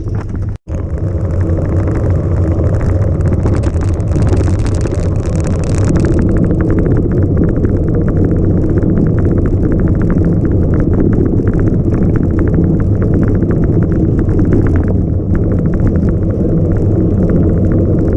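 Steady, loud rumble of a motor vehicle on the move, with a sudden dropout for an instant just after the start.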